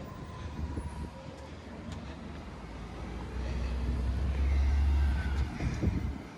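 Garbage truck engine running with a low rumble that grows louder from about three seconds in, then drops off, with a few knocks near the end.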